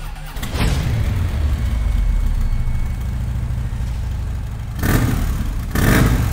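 Motorcycle engine running with a steady low rumble. Two short, louder bursts come near the end, about a second apart.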